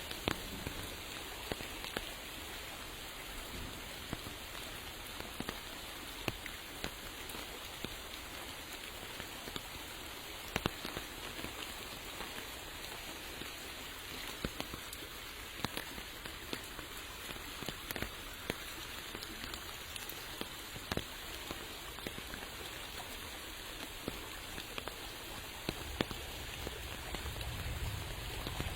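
Steady rain, with individual drops tapping sharply and irregularly among the even hiss. A low rumble comes in near the end.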